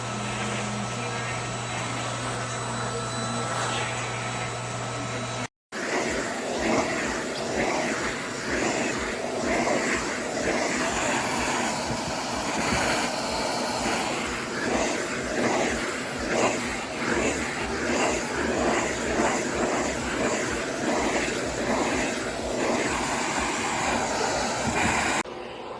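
Pet grooming vacuum motor running with a steady hum; after a brief break about five seconds in it runs on with a rougher sound that rises and falls unevenly.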